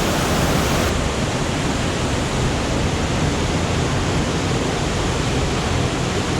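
Loud, steady rush of falling water, a waterfall or fast stream close by, with no breaks.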